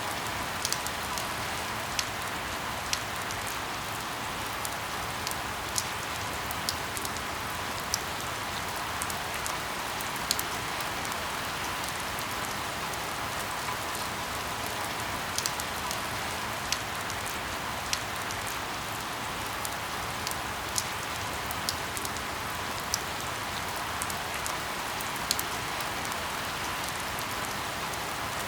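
Steady rain falling, an even hiss with sharp drop taps scattered irregularly through it.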